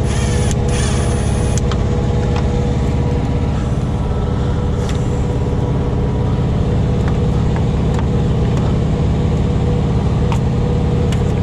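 Truck engine idling steadily, with a few faint clicks.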